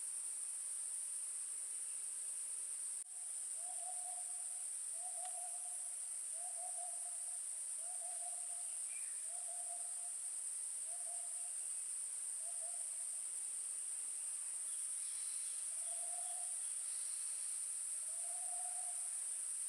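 Forest insects buzzing steadily with a high shrill, while a wild animal, likely a nocturnal bird, gives a long series of short, even, low hoots about one a second, starting a few seconds in and coming more slowly near the end.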